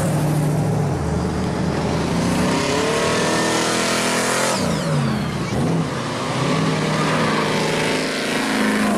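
Hot rods driving past one after another, their exhaust loud. One car's engine note climbs as it nears and drops sharply as it passes about halfway through, and the next car's engine builds near the end.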